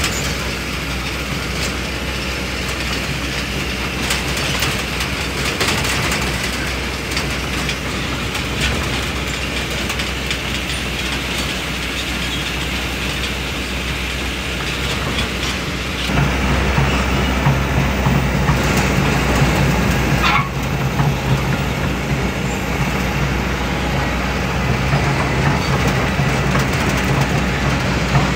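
Excavator's diesel engine running steadily under work, with scattered metallic clanks. The engine grows louder and heavier about sixteen seconds in, as if put under more load.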